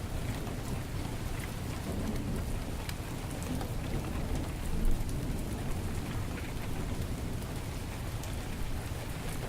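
Heavy rain falling steadily, with a low rumble underneath and scattered sharp crackles, such as those from a wood fireplace. There is one brief louder pop just before the halfway point.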